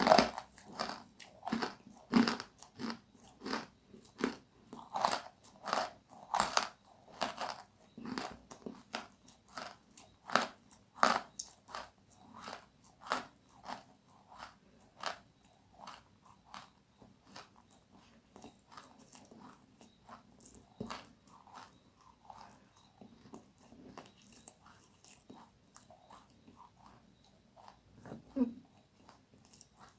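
Close-miked biting and chewing of crisp, crunchy food: loud crunches about twice a second through the first half, then softer, sparser chewing.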